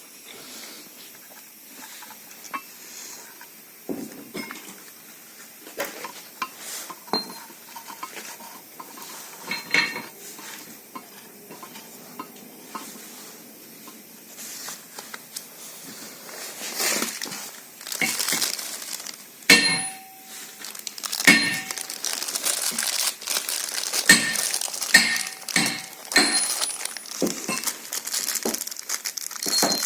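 Metal parts and hand tools clinking and knocking against each other at irregular intervals, some strikes leaving a short metallic ring. The handling gets busier about halfway through.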